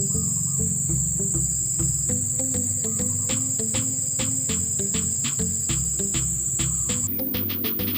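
Insects making a steady, high-pitched trill over background music with a regular beat; the trill cuts off suddenly about seven seconds in.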